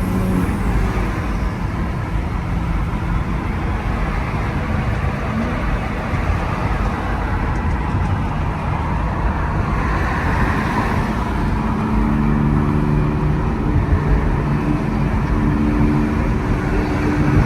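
Steady road and engine noise of cars in traffic. A low, even engine hum becomes clearer in the last few seconds.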